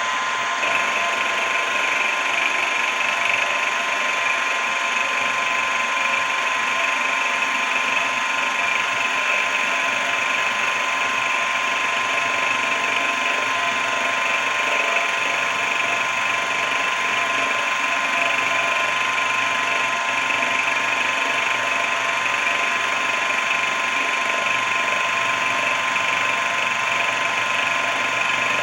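Benchtop mini mill-drill running steadily, a motor and spindle whine with several fixed tones, which grows a little brighter less than a second in.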